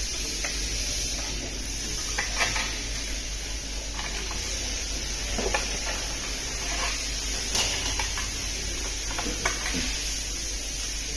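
Scattered light metallic clinks and knocks of tools and engine parts being handled, over a steady hiss.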